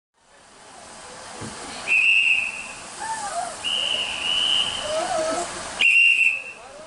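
Three short, high-pitched whistle blasts, the middle one longest, over a steady hiss of steam at a railway station, fading in at the start.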